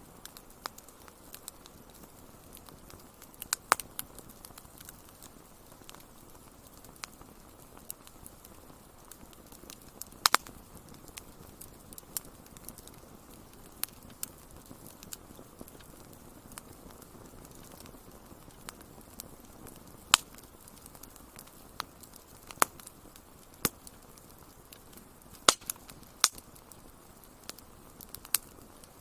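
Wood fire crackling: irregular sharp pops and snaps, a few much louder than the rest, over a low steady hiss.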